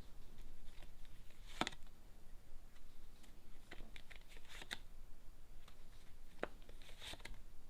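Tarot cards being drawn from the deck and laid down: a few soft, scattered card snaps and slides, with a cluster of them about four seconds in.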